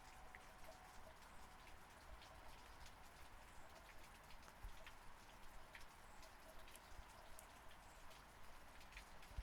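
Faint, steady rain, with scattered individual drops ticking sharply through the even patter.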